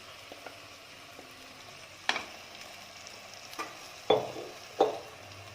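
Marinated chicken being stirred into onion-tomato masala in a clay pot, sizzling faintly, with four sharp knocks of the stirring utensil against the pot in the second half, the last two loudest.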